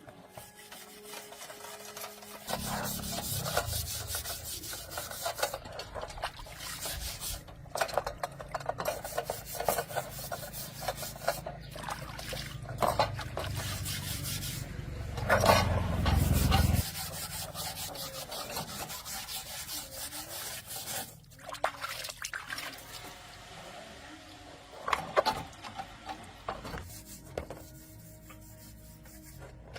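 Repeated rough rubbing and scraping, typical of hand work on a surface such as sanding or filing. A steady low hum runs under it from a couple of seconds in until just past halfway, when it stops suddenly.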